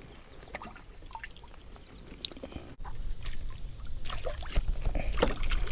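Water lapping and trickling around a small jon boat, with scattered light knocks and clicks. A low rumble comes in about three seconds in and grows louder.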